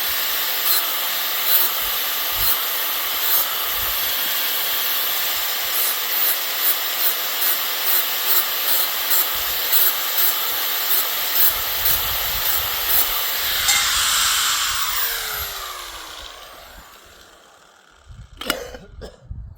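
A power tool running under load with a steady hiss and regular ticks, then released and winding down with a falling pitch about two-thirds of the way through. A couple of knocks near the end.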